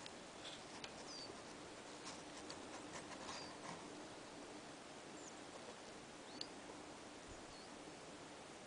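Faint outdoor hiss with about five brief, high chirps scattered through it: small birds calling.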